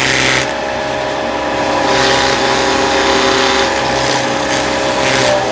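Vicmarc VL300 wood lathe motor running steadily with a whine, slowing down near the end, while a rag rubs over the oiled wooden bird-feeder part spinning on it, wiping off the excess finish.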